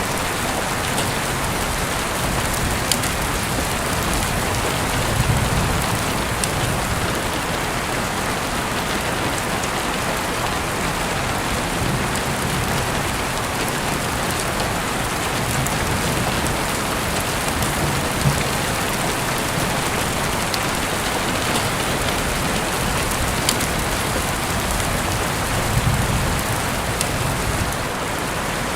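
Heavy rain falling steadily, heard through an open window, with scattered sharper drop ticks and now and then a brief low swell.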